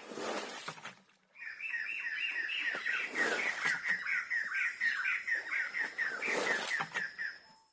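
A bird calling a rapid run of repeated chirps, about four a second, for some six seconds. A few louder noisy swishes come near the start and in the middle.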